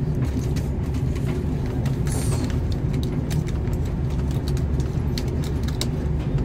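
Steady low rumble of a moving passenger train heard from inside a sleeper cabin, with light clicks and rattles scattered through it and a brief rustle about two seconds in.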